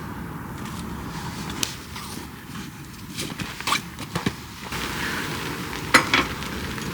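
A few scattered sharp clicks and knocks over a steady background hiss, the loudest pair near the end.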